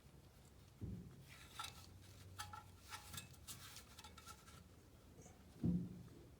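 Steel suspension parts being handled while a front spindle is fitted onto the control arms: light metallic clicks and scrapes with a faint ring, between two dull thumps, the louder one near the end.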